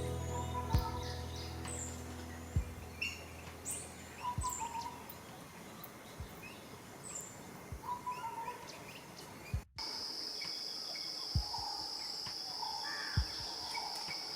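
Forest birds chirping and calling in short notes, with a soft low thump about every two seconds. About ten seconds in, a steady high insect drone, like cicadas or crickets, joins the bird calls.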